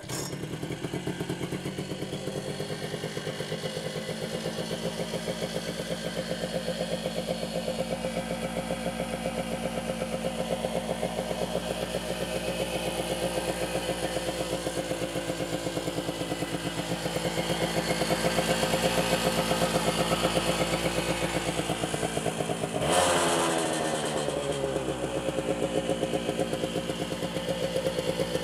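1984 Yamaha Tri-Moto three-wheeler's engine idling steadily with a rhythmic beat just after a cold start. About 23 seconds in the throttle is blipped once: the engine revs up sharply, then settles back to idle over a couple of seconds.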